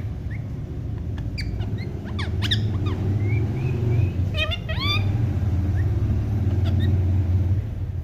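Short, high bird chirps and tweets, with a quick run of rising tweets about four and a half seconds in, over a steady low hum that drops off near the end.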